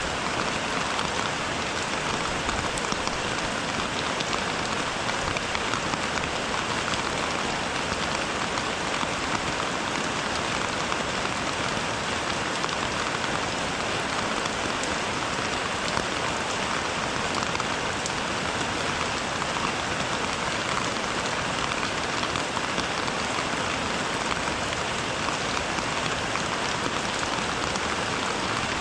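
Steady rain falling: an even, unbroken hiss of rain with scattered drop ticks.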